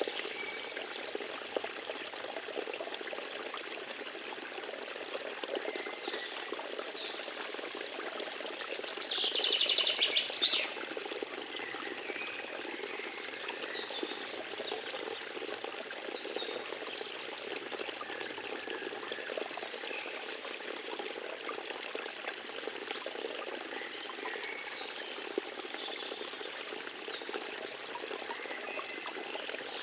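Forest stream trickling and flowing steadily, with faint scattered bird calls. About nine seconds in, a high-pitched rattling sound swells for about two seconds, becomes the loudest thing heard, and stops suddenly.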